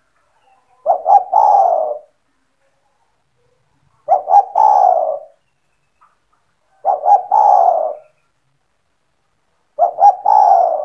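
Spotted dove (tekukur) cooing: four phrases about three seconds apart, each two or three short notes followed by a longer, falling coo.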